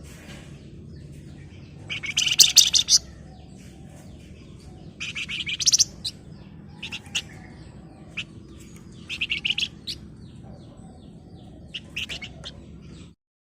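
Flamboyan songbird singing: three bursts of dense, rapid, buzzy high-pitched trilling (about two, five and nine seconds in) with short chirps scattered between, over a low steady hum; the sound cuts off suddenly near the end.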